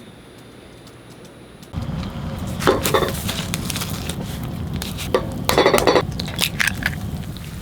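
Dishes and glassware clinking and being handled, in two clusters of sharp clinks, over a steady low rumble that starts about two seconds in.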